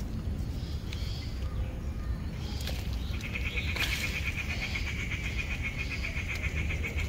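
An animal call: a rapid, evenly pulsed high trill that starts about three seconds in and keeps going, over a low rumble.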